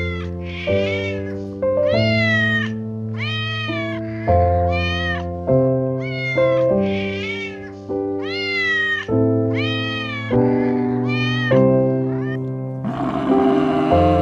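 An animal calling again and again, a dozen or so short high cries that rise and fall in pitch, over background music with long held notes. A rougher, noisier sound starts near the end.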